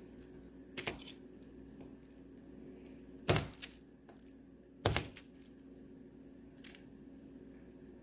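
Knife chopping through a hard, unheated block of scented wax melt: four sharp cracks as chunks break off, the loudest about five seconds in.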